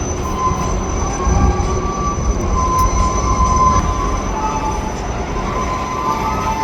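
Freight cars rolling slowly past on the rails: a steady low rumble of wheels on track, with thin squeals from the wheels that come and go.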